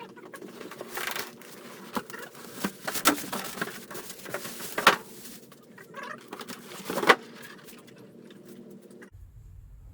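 A steady low hum with several sharp knocks and clicks scattered through it; the hum stops abruptly near the end.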